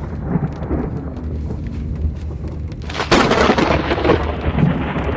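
Thunderstorm with heavy rain and a steady low rumble. About three seconds in comes a sudden loud crack of thunder that fades over about a second.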